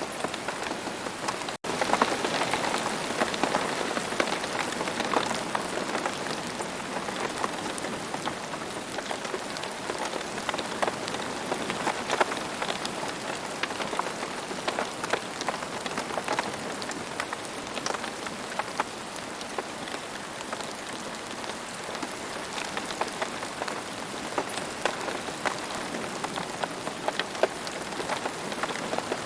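Steady rain falling on a surface, an even hiss dotted with many individual drop ticks. The sound cuts out for a split second about a second and a half in.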